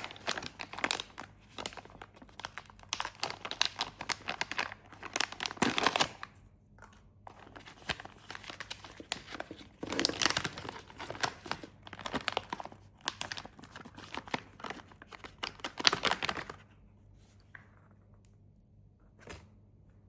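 Plastic candy wrappers being crinkled and torn open by hand, a dense crackling that stops about three-quarters of the way through. A single soft tap follows near the end.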